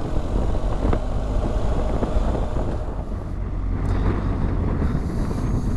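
BMW R 1250 GS boxer-twin engine running under way, with wind and road noise; the engine eases off briefly about three seconds in, then picks up again.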